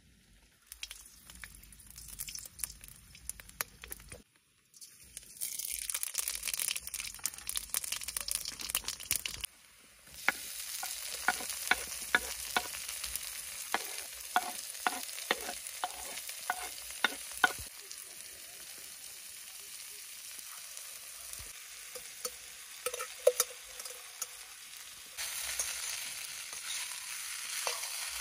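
Chopped onion, tomato and then rice sizzling as they fry in a wok, with a spatula scraping and tapping against the pan, several taps a second in the middle. The sizzle stops and starts again abruptly several times.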